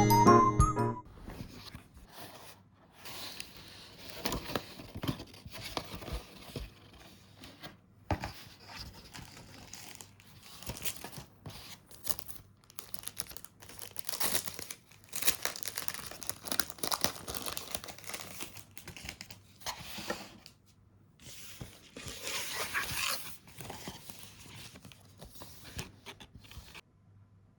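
Intermittent rustling and crinkling of something being handled, with short crackly bursts and brief pauses between them.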